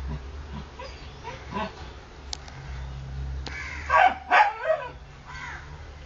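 Newborn Pomeranian-cross puppies squealing and whimpering in short high cries, loudest in a cluster about four seconds in.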